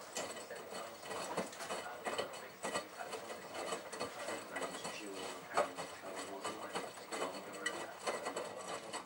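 Miele Navitronic washing machine in the middle of its automatic wash cycle: the drum turns and a load of T-shirts tumbles inside it, with irregular soft clicking and rubbing.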